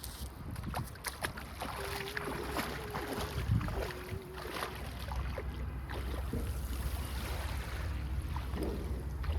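Wind rumbling on the microphone at the seashore, with scattered clicks. A faint held tone sounds for about three seconds, starting about two seconds in.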